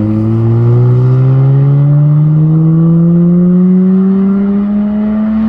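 Mazda RX-8's rotary engine pulling hard through one long gear as the car accelerates away, its pitch rising slowly and steadily.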